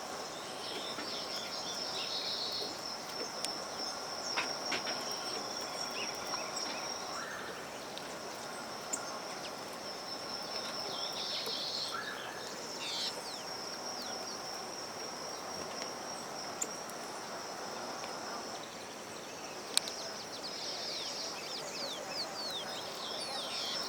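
Outdoor ambience of a steady high insect trill, like crickets, with small birds giving bursts of quick chirps near the start, around the middle and near the end, over a low general background hum.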